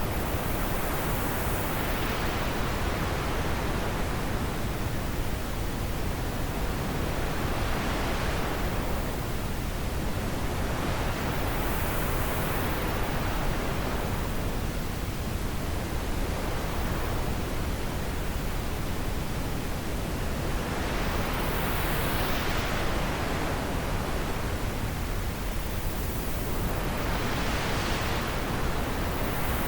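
Wind blowing as a steady rushing noise that swells and eases every few seconds.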